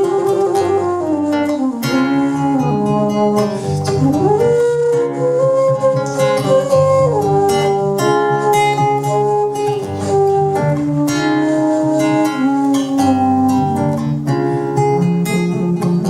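Live acoustic band music: a strummed acoustic guitar under a sustained melody line that slides between notes.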